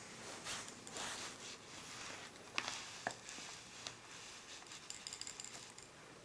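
Faint rustling and scuffing, with a few sharp light clicks about two and a half and three seconds in, and a quick run of small ticks near the end.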